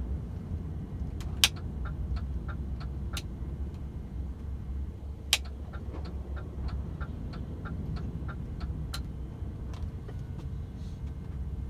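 DAF XF 510 truck cruising, heard inside the cab: a steady low engine and road rumble, with a run of regular ticks about three a second and a few sharper clicks through most of it.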